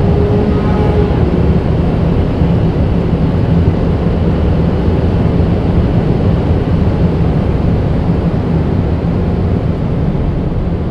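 A 2018 Audi A7 55 TFSI driving at high speed: a loud, steady rush of wind and road noise with a low engine drone underneath.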